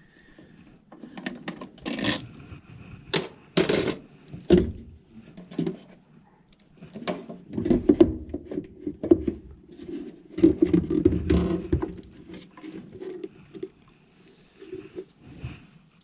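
Irregular clicks, knocks and rattles of furnace parts and tools being handled, with denser bouts of clattering about halfway through and again about two-thirds of the way in.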